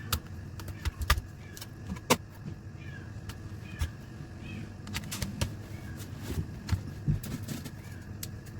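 Irregular sharp clicks and taps of small hard objects being handled, over a low steady hum.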